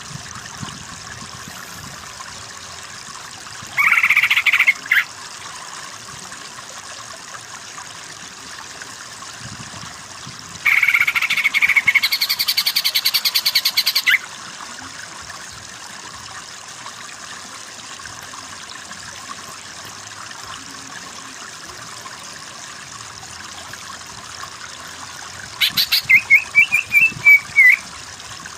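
Green leafbird (cucak ijo) singing in three loud bursts: a short phrase about four seconds in, a fast trill lasting about three and a half seconds in the middle, and a run of quick chattering notes near the end, over a steady background hiss.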